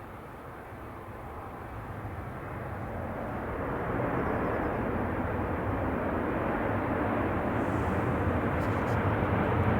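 Airbus A220-300's Pratt & Whitney PW1500G geared turbofan engines growing steadily louder during its takeoff, a rising jet roar heavy in the low end.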